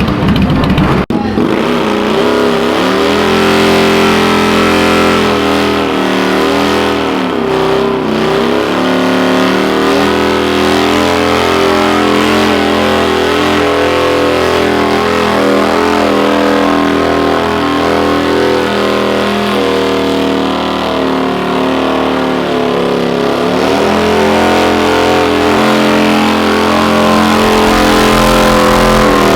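Car engine held at high revs during a burnout, its pitch dipping and climbing back twice, about a quarter of the way in and again near the end, as the throttle eases and is pressed again.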